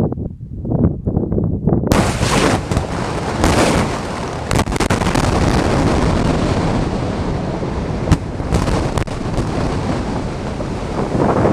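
Quarry blast: about two seconds in, a sudden loud burst, then a long spell of heavy noise broken by several sharp cracks. Wind buffets the microphone before the blast.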